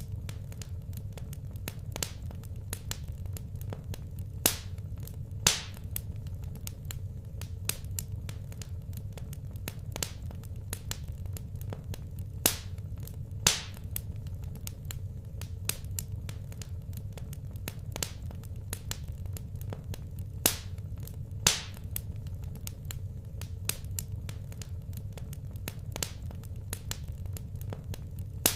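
Wood fire crackling in a fireplace: a steady stream of small sharp pops over a low steady rumble, with a pair of louder pops about a second apart roughly every eight seconds.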